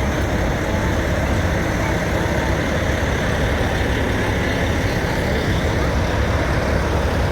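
Steady low rumble and hiss of parade vehicles going by outdoors, with faint voices in the background.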